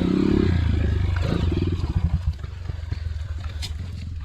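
Trail motorcycle engine revving with a wavering pitch, then easing off to a lower, uneven putter that gets quieter about two seconds in.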